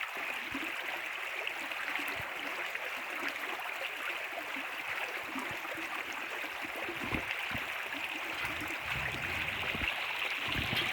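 Steady rush of moving water, with a few soft low thuds in the second half.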